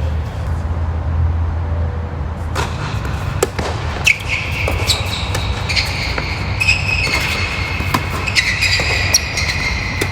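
Tennis balls being struck with rackets and bouncing during a doubles rally: a series of sharp, separate hits. High squeaks come in the second half, over a steady low rumble.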